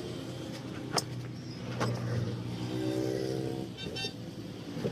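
A motor vehicle engine running steadily, with two sharp knocks, the first about a second in and the second under a second later.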